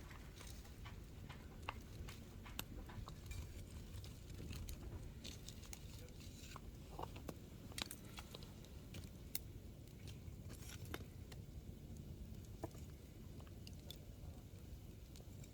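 Hardwood logs burning in an open campfire, crackling with irregular sharp pops and snaps over a low steady rumble.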